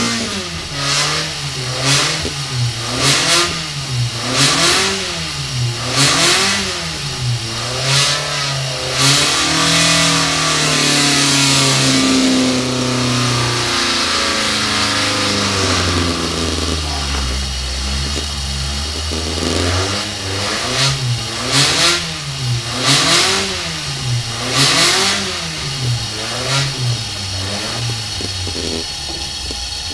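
Built 1780cc Ford Crossflow four-cylinder race engine (85 mm bore, forged pistons, 11.5:1 compression, 244 camshaft) running on an engine dynamometer and being blipped on the throttle over and over, rising and falling in pitch about once a second. Partway through it holds high revs for several seconds and then drops lower, before a second run of quick blips.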